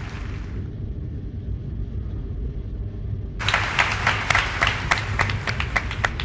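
Applause dying away, then about three seconds in a quick run of sharp handclaps, roughly five a second, starts up over a steady low rumble.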